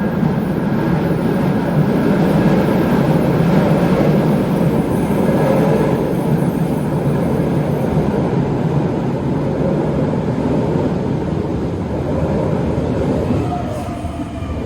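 Sydney Trains electric suburban train running at the platform: a loud, steady rumble of wheels on rails, easing slightly near the end.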